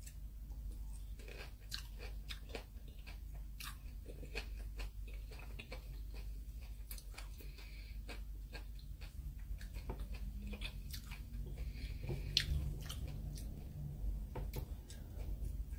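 Close mouth sounds of biting and chewing a whole raw kumquat, peel and all: irregular small wet clicks and crunches.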